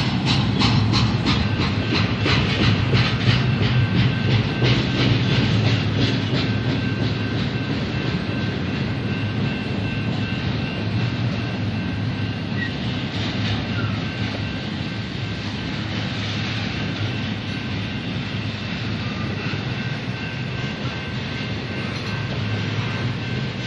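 Double-stack container freight train rolling past, its cars giving a steady rumble. Quick, regular clicking of wheels over rail joints is strongest for the first several seconds, then fades into an even rumble.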